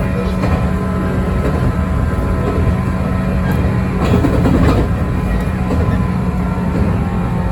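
JR West 115 series electric train running along the rails: a steady hum over wheel and track rumble, with a louder rattle about four to five seconds in.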